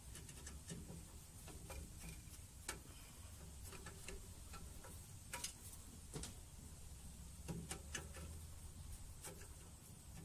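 Scattered, irregular clicks and light metallic taps of hand tools working on furnace parts as the burnt-out igniter is being removed, over a faint low hum.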